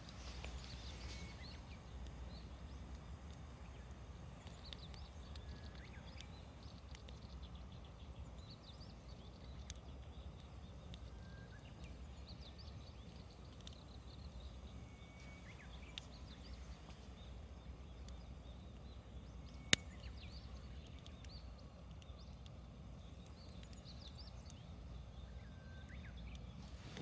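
Wood fire burning with scattered crackles and pops, one sharp snap about twenty seconds in, over a steady low rumble.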